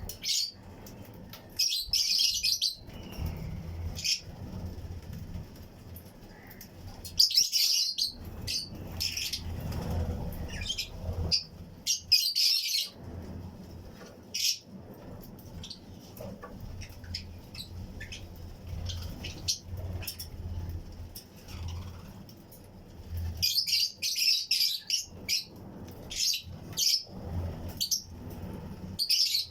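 A colony of Fischer's and lutino lovebirds chirping in bursts of rapid, shrill calls, several birds at once in clusters with quieter gaps between, over a low steady rumble.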